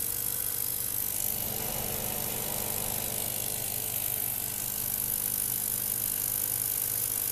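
Homemade CO2 laser cutter running while it cuts plywood: a steady hum with a hiss over it.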